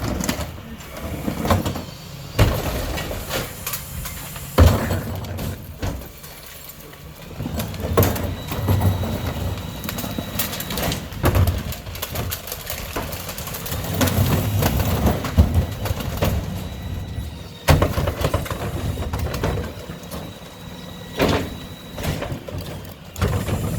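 Mack LR rear-loader garbage truck with a McNeilus body at work: the engine runs with a low rumble under repeated clanks and bangs, and a faint high whine runs through the middle.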